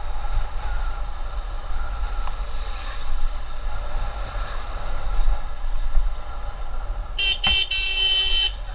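Road noise and wind rumble from a motorcycle riding on a highway. Near the end a vehicle horn honks: two short toots and then one longer blast of about a second.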